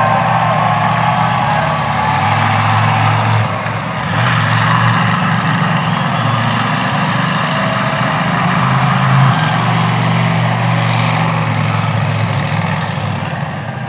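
Monster truck engine running loud and steady, its revs easing off briefly about four seconds in before picking up again.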